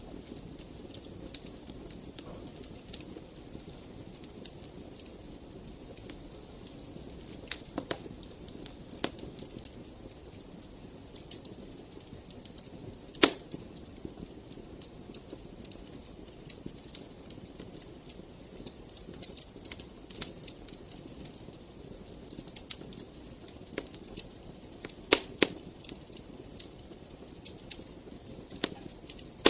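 Fireplace fire crackling: a steady low hiss of flames with scattered sharp pops and snaps, the loudest about 13 seconds in and two close together near 25 seconds.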